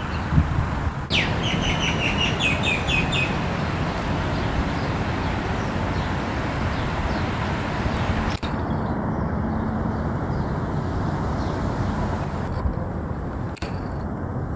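Small birds chirping, a quick run of high chirps in the first few seconds, over a steady outdoor rumble of wind and distant traffic.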